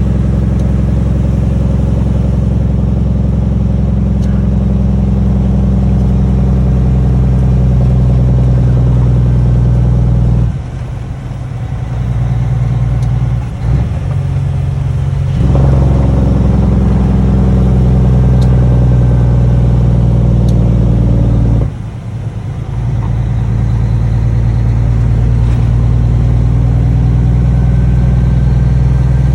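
Cummins ISX inline-six diesel running loud through six-inch straight pipes, a steady low-pitched note that drops away briefly twice, about ten seconds in and again a little past twenty seconds, before coming back.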